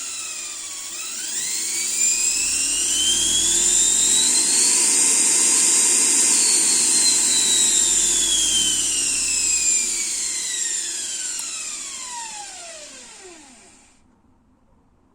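Motenergy ME1004 brushed DC electric motor running under a Curtis controller, with a loud whine that follows its speed. The pitch dips briefly, climbs to a high steady whine, then falls steadily as the motor slows to a stop near the end.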